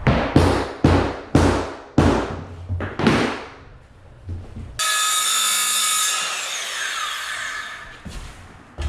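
Saw strokes, about two a second, cutting through a rigid core vinyl floor plank. About halfway through, a power tool's motor starts suddenly with a high-pitched whine, then winds down and falls in pitch.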